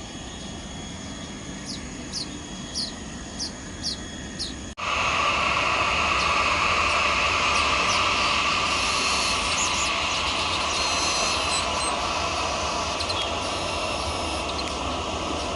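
A steady low background with six short, high, evenly spaced chirps. About five seconds in, the sound cuts abruptly to the loud, steady noise of a jet airliner's engines, which eases slightly near the end.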